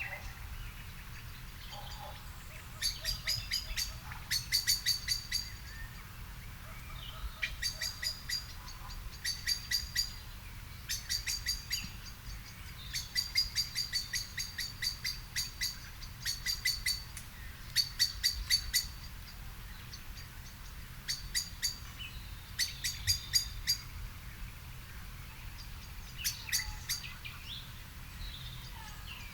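A bird calling in repeated runs of rapid, sharp chipping notes, about eight notes a second and each run about a second long, a dozen or so runs with short gaps between.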